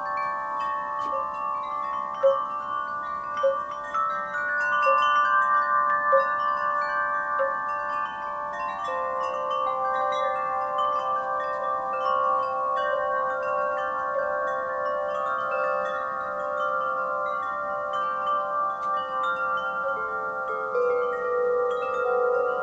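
Wind chimes ringing in a breeze: many overlapping tones struck at irregular moments, each ringing on for several seconds.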